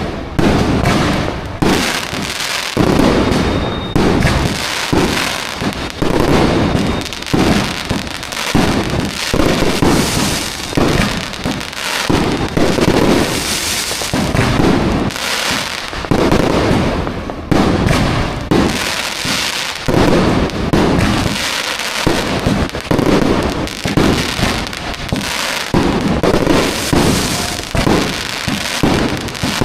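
Fireworks going off in a continuous barrage, with many overlapping bangs and no let-up.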